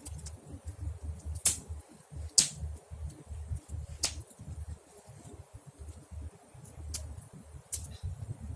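Campfire crackling: a handful of sharp wood pops and snaps, the loudest about two and a half seconds in, over a low steady rumble.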